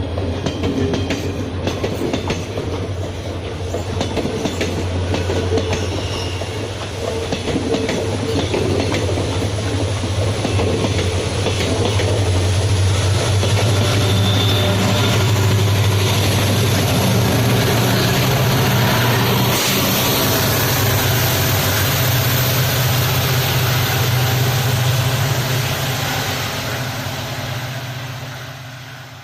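Diesel-hauled passenger train passing: wheels clacking over rail joints, then the steady low drone of WDP4-class diesel locomotives with a high whine, fading out near the end.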